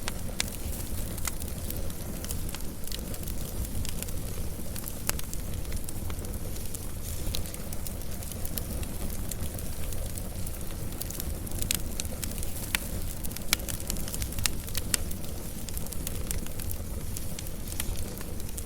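Wood fire burning with a steady low rumble and frequent sharp crackles and pops from the burning logs.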